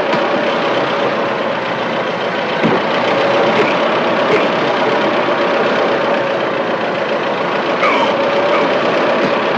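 Steady running of an idling vehicle engine, with a faint knock about three seconds in.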